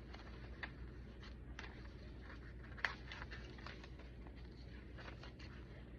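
Pages of a chunky handmade paper junk journal being handled and turned: faint scattered paper rustles and light taps, with one sharper click about three seconds in, over a low steady hum.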